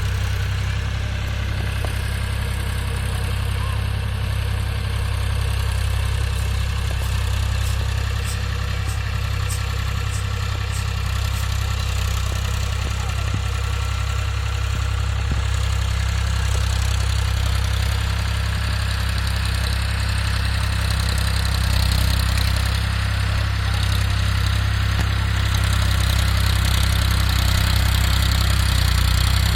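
Tractor engine idling sound, a steady low drone that holds unchanged throughout.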